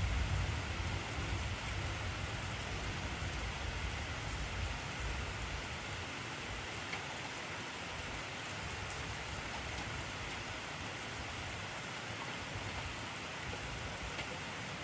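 Heavy rain falling steadily, an even hiss. A low rumble of thunder fades out over the first few seconds.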